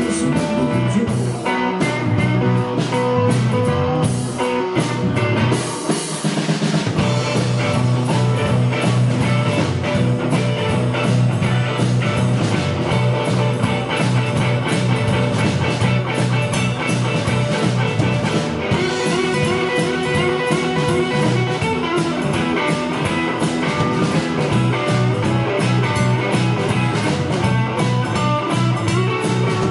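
Live rock band playing an instrumental passage: electric guitar over bass and a drum kit, without vocals.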